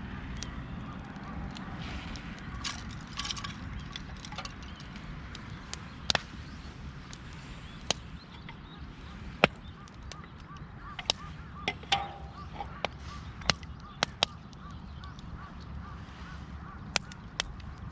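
Wood fire crackling with scattered sharp pops at irregular times, over a steady low rumble. A flock of geese honks faintly in the distance with small repeated calls.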